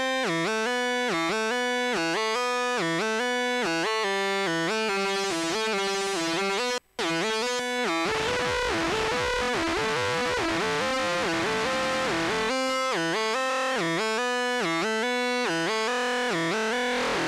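Synthesizer playing a trance riff: a fast repeating pattern of short pitched notes. It cuts out for an instant about seven seconds in, then runs for about four seconds as a denser, swirling, noisier sound before the plain riff returns.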